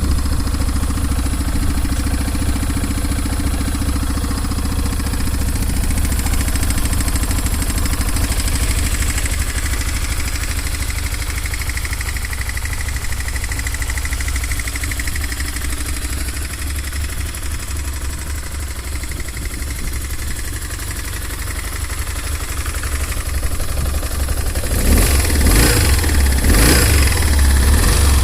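BMW R 1150 GS Adventure's boxer twin engine idling steadily, then revved up a few times near the end. It is offered as an engine with a knock in it.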